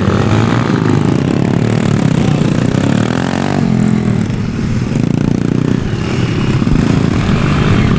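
Motorcycle engine running and revving, its pitch rising and falling.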